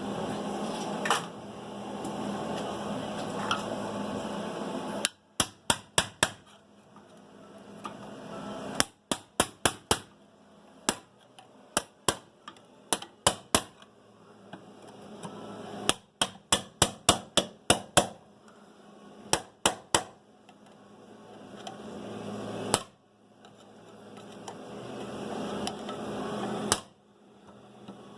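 Hammer blows on steel in quick runs of several strikes. Between the runs there are stretches of steady rushing noise that swell in level.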